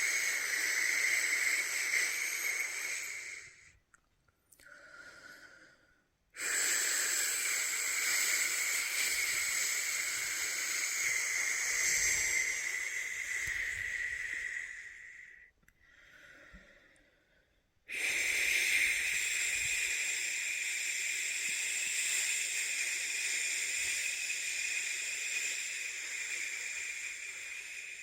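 A person's long 'shhh' shushing sound to soothe a newborn to sleep, each shush held for about ten seconds, with two short breaks for breath, about four seconds in and again past halfway.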